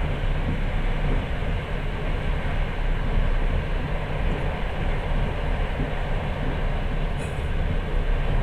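Steady rumble of a moving passenger train heard from inside the carriage: wheels running on the rails as an even low roar with no distinct clacks.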